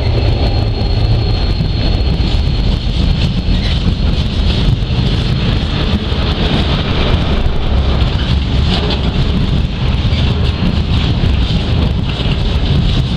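Irish Rail 071 class diesel-electric locomotive 087 working under power as it hauls a train of empty timber wagons away, a steady heavy engine note with wind buffeting the microphone. A thin high whine fades out about three seconds in.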